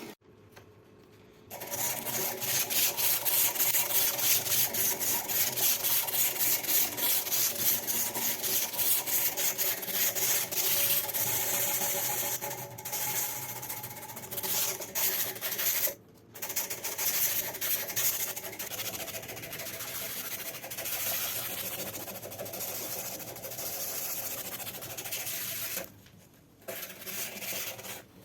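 Sanding or filing during a sledgehammer restoration: steady abrasive rubbing in fast repeated strokes. It pauses briefly near the start, about halfway through and near the end.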